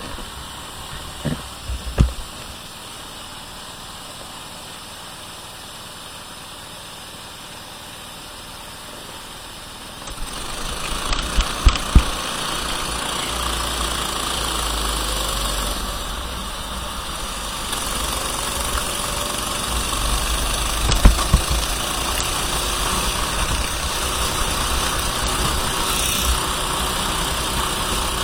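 Kart engine running at a low, steady idle, then about ten seconds in it comes up and runs much louder as the kart moves off. There are a couple of sharp knocks just after the rise and another about twenty seconds in.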